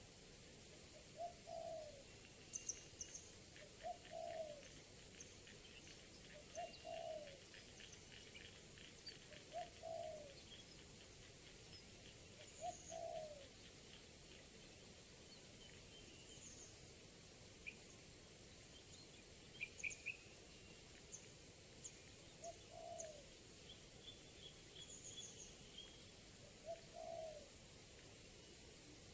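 Spotted dove (tekukur) cooing: short, low coos repeated about every three seconds, then a pause of around ten seconds before two more. Faint high chirps of small birds sound over it, with a quick high trill near the start.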